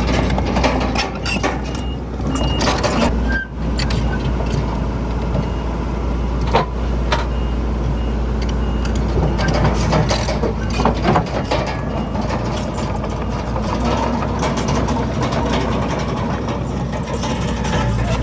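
Komatsu D31PX crawler bulldozer's diesel engine running steadily, with frequent metallic clanks and knocks throughout as it works earth and rock.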